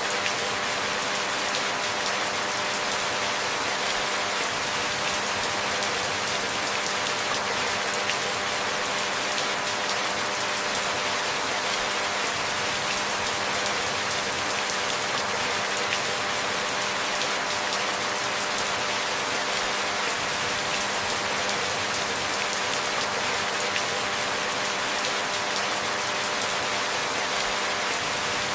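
Steady rain falling, even and unbroken, with a faint steady hum beneath it.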